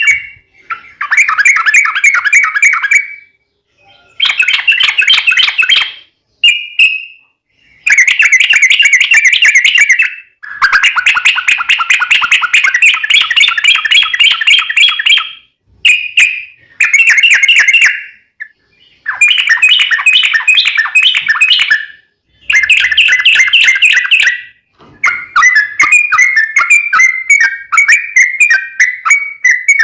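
Yellow-vented bulbul (trucukan) singing long, fast, rolling chattering phrases. There are about ten bursts of bubbling notes, each a second or several seconds long, with brief pauses between them.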